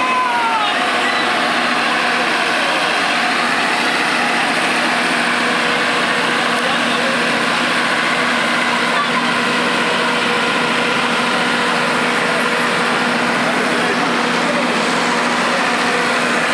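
Steady background of many overlapping voices with a steady engine-like hum, unchanging in level.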